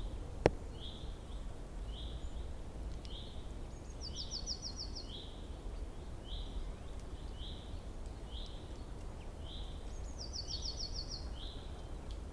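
Small songbirds calling: a short note repeated about every two-thirds of a second, with a quick high trill of about six notes twice, over a steady low background rumble. A single sharp click about half a second in.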